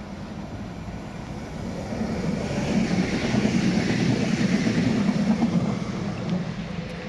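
Electric multiple-unit passenger train approaching and passing close by: its running noise swells from about two seconds in, is loudest in the middle as it goes past, then begins to fade. A steady low hum runs underneath.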